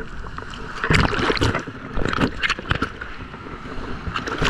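Ocean surf waves breaking and splashing against a person wading waist-deep, in noisy surges with a bigger wash near the end, with wind buffeting the microphone.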